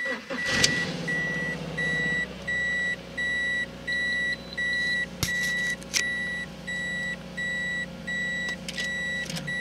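Subaru BRZ's flat-four engine cranking briefly and catching about half a second in, then settling into a steady fast idle near 2,000 rpm: a cold start that goes normally after three months sitting. Through it a warning chime beeps about twice a second, and there is one click a little after five seconds.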